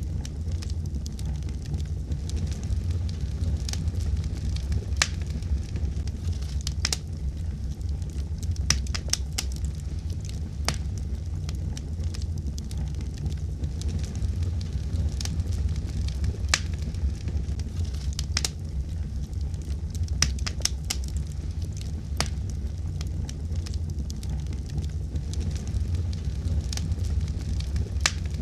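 Fireplace fire crackling: irregular sharp pops and snaps, a few close together in quick clusters, over a steady low rumble.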